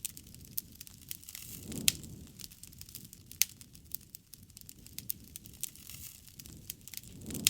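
Wood bonfire crackling: irregular sharp pops and snaps of burning wood over a soft low rush of flame. The rush swells about two seconds in and again at the end.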